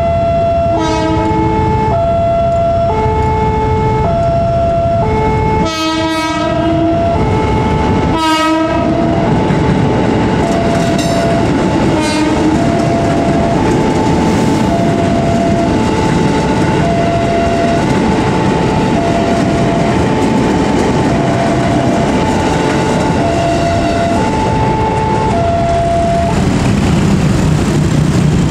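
Level-crossing warning alarm sounding two alternating tones, switching about once a second, as a KRL Commuter Line electric train sounds two horn blasts and then runs past with a steady rumble and clickety-clack of wheels on rail joints. The alarm stops near the end as the train clears.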